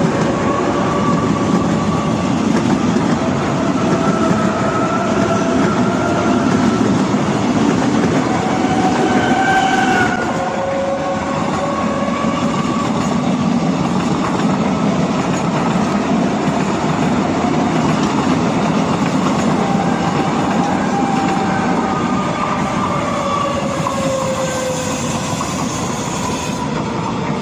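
CP suburban electric multiple-unit trains running past: a steady rumble of wheels on rail with clickety-clack. Several whining tones drift up and down in pitch over it, and the sound drops a little about ten seconds in.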